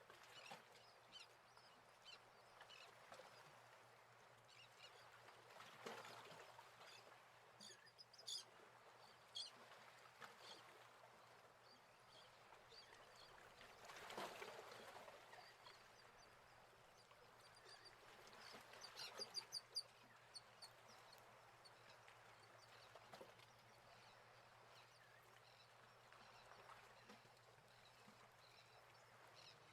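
Faint birds chirping outdoors, with short runs of quick high calls about eight seconds in and again near twenty seconds, over a soft steady hiss of outdoor air.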